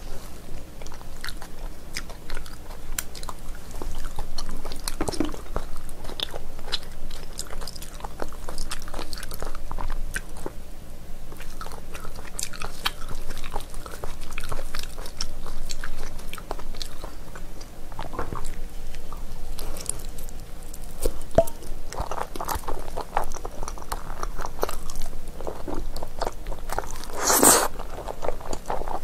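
Close-miked chewing and biting of chewy, gelatinous spicy braised beef trotter, with many wet mouth clicks and smacks. One louder mouth sound comes near the end as a new piece goes in.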